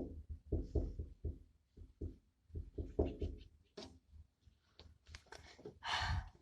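A series of irregular knocks and taps, a dozen or so in about six seconds, ending with a brief rustle.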